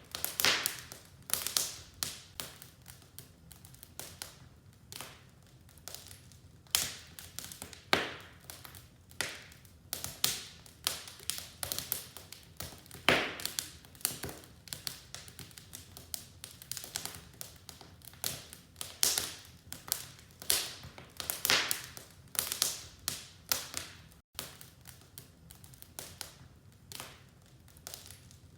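Wood fire crackling in a fireplace: irregular sharp pops and snaps, several a second and some much louder than others, over a faint low rumble.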